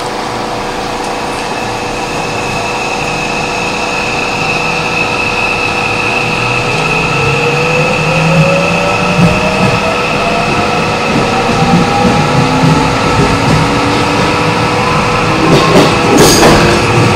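Running sound inside a JR West 207 series 0-subseries refurbished commuter train as it accelerates. Under a steady high whine, a motor tone rises in pitch as the train picks up speed, and the sound grows louder. Near the end the wheels clatter over rail joints.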